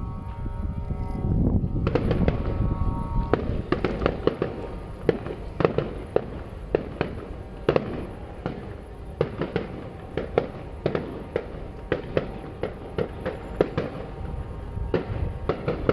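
Fireworks display: from about two seconds in, a dense, irregular string of sharp bangs and reports from bursting shells, over a constant low rumble.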